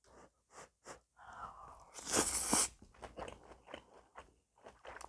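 Close-miked eating sounds: crunchy bites and chewing, in short clicks, with one louder crunching burst about two seconds in.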